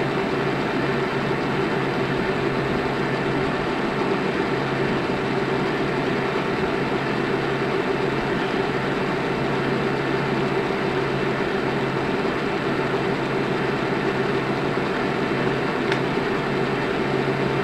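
Steady machine hum with a low drone and a fainter higher tone over an even hiss, unchanging throughout.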